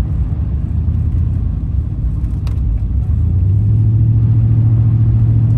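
GMC 2500HD pickup's 6.0-litre gas V8 running at road speed with a low rumble; about three seconds in a steady low drone rises and holds.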